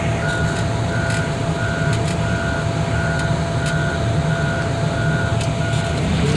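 Backup alarm of a diesel machine reversing, beeping evenly about one and a half times a second and stopping near the end, over the steady low running of its engine.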